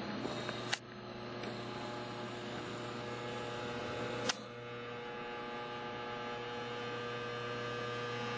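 Electric motor of a KP-800D twist-drill punching machine running with a steady hum, with two sharp clicks about three and a half seconds apart.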